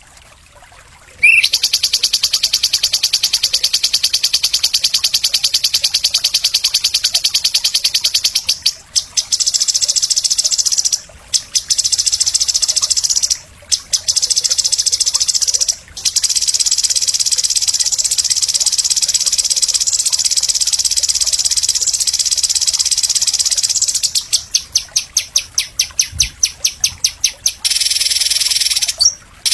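Songbird masteran recording: a loud, very rapid high-pitched trill that starts about a second in and runs on almost without a break, stopping briefly a few times and breaking into quick separate bursts near the end.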